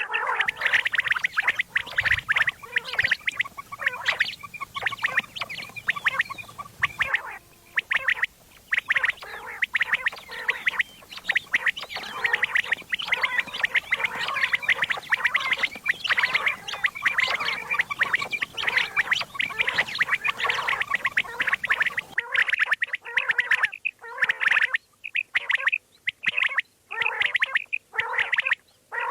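Common quail calling: a dense, rapid chattering run of short repeated calls, breaking into shorter bursts with brief gaps in the last several seconds.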